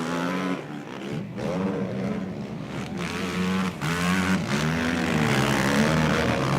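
Racing quad bike (ATV) engines revving on a motocross track, their note rising and falling as the riders work the throttle, with more than one engine heard at once.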